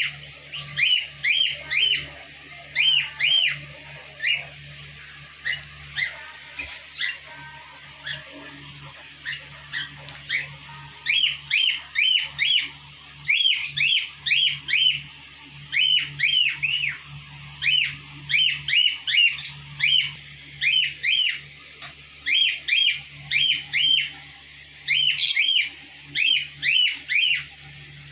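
Small pet parrots chirping: short, sharp, high chirps in quick runs of two or three, repeating over and over, with a low steady hum underneath.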